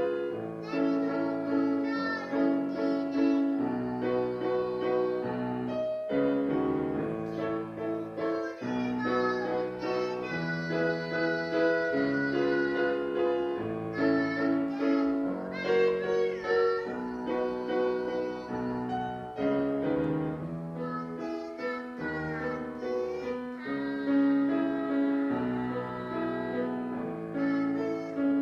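A young child singing a Korean children's song (dongyo) over piano accompaniment.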